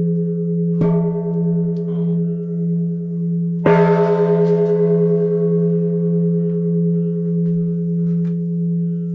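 Large temple bell struck twice, about three seconds apart, the second strike harder and louder. Its deep, wavering ring hangs on between and after the strikes. These are the closing strokes of the three ritual strikes, one for each of the Three Jewels.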